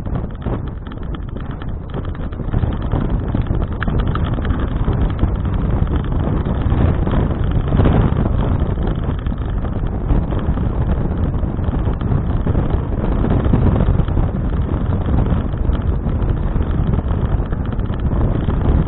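Wind buffeting an action camera's microphone on a moving bicycle: a loud, steady low rushing that builds over the first few seconds.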